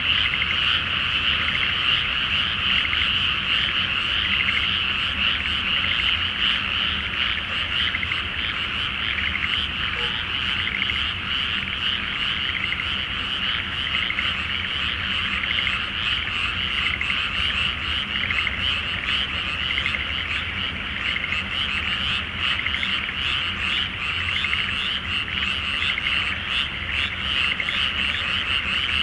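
A large chorus of frogs calling in a flooded rice paddy, many rapid pulsing croaks overlapping into a steady, unbroken din.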